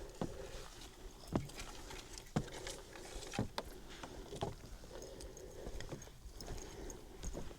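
Slow footsteps, about one step a second, each a sharp thud.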